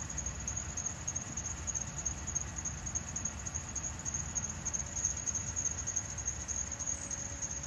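Outdoor ambience: a steady high-pitched insect drone over a low rumble, with a faint steady hum coming in near the end.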